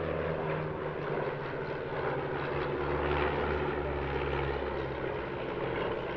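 Piston engines of propeller-driven classic training aircraft flying a display pass, a steady drone whose pitch shifts slightly a couple of times.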